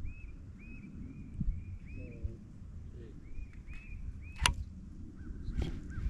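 A bird calling over and over in short arched chirps, about two a second, over a low rumble. There is one sharp click about four and a half seconds in.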